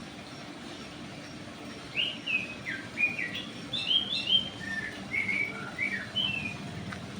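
A songbird singing a run of quick, varied chirping notes, starting about two seconds in, over a faint steady background.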